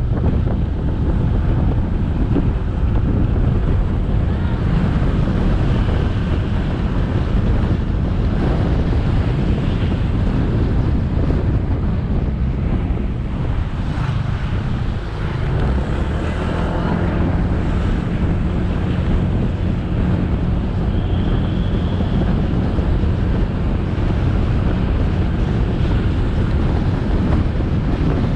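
Wind buffeting the camera microphone on a moving motorcycle, with engine and road noise underneath. The noise is steady, with a brief dip about halfway through.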